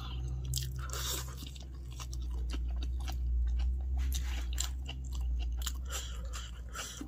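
A person chewing and biting food, with a steady run of many small crunches and clicks.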